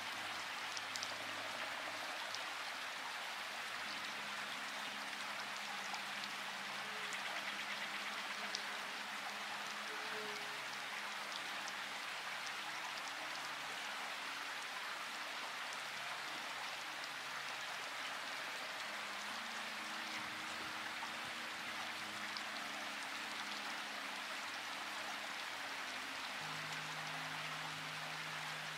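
Steady rain falling, an even hiss with scattered individual drop ticks. Faint low held tones sit underneath, changing every few seconds.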